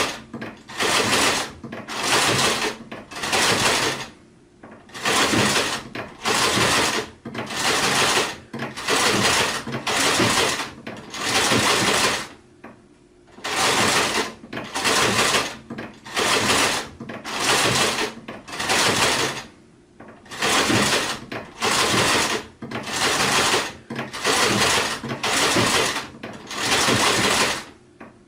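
Sewing machine stitching in short runs, starting and stopping about once a second, with a few longer pauses between runs.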